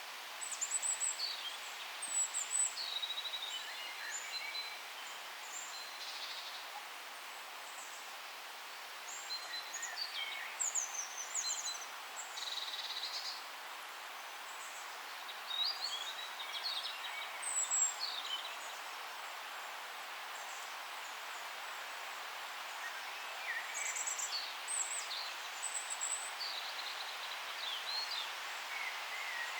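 Forest ambience: several birds singing and calling in short, high bouts over a steady background hiss of leaves and air.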